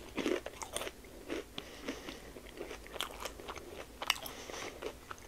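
Close-miked bite into a crispy fried cheesy chicken taquito dipped in queso, then chewing with irregular crisp crunches.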